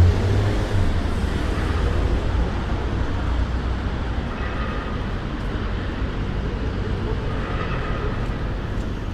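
City street ambience: a steady wash of traffic, with a heavy low rumble of a passing vehicle at the start that eases off over the first second or two.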